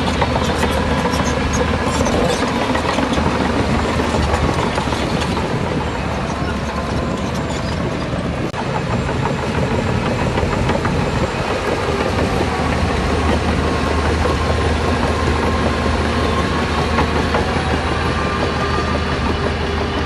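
Heavy diesel earthmoving machinery running steadily, a deep engine drone with a continuous clatter over it.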